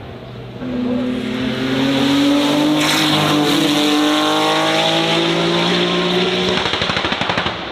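Aston Martin Victor's V12 engine under hard acceleration as the car passes. The note gets louder about a second in and climbs steadily in pitch for about six seconds, then drops away near the end.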